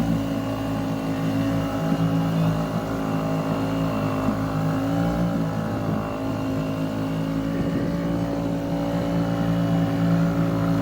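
Small motors of bumper boats running steadily, a constant engine drone with only slight shifts in pitch.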